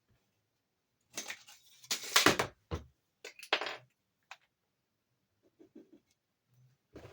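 Short scrapes and clinks of small metal parts being handled on a workbench, a handful of separate noises with the loudest about two seconds in and fainter ones near the end.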